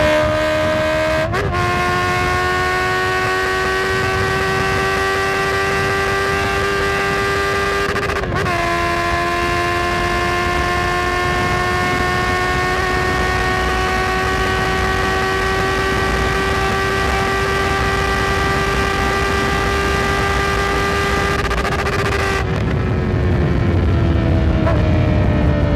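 Honda CB650F's inline-four engine under way, holding a steady note that climbs slowly in pitch. It is broken by quick gear changes about a second in and about eight seconds in. Near the end the revs fall away as the bike slows.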